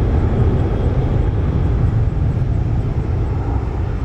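Boeing 767-300ER's twin jet engines at climb power just after takeoff: a steady low rumble that eases slightly toward the end as the airliner climbs away.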